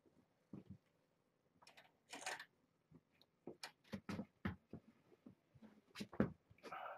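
Rustling and a run of irregular light knocks and clicks from objects being handled and set down, busiest in the second half.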